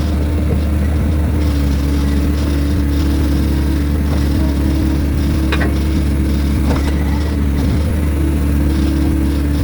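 Heavy diesel engine of logging equipment running steadily at a constant speed, with two faint clicks a little past the middle.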